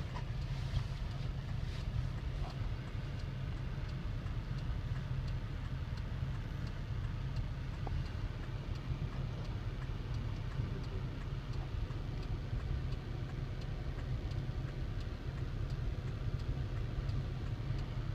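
Steady low rumble of a car engine running, with an even hiss over it.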